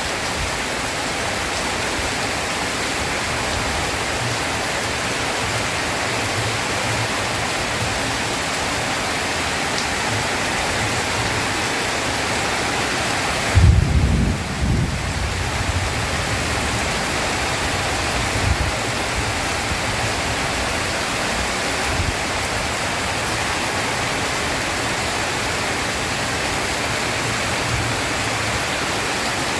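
Heavy rain falling steadily, with a loud low roll of thunder about halfway through and a couple of fainter rumbles after it.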